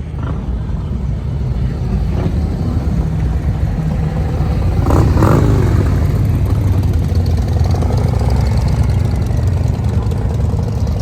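Motorcycle engine running, its low rumble growing louder over the first five seconds and then holding steady.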